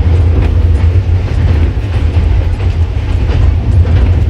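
Passenger train running along the line, a loud steady low rumble with a few faint clicks of the wheels.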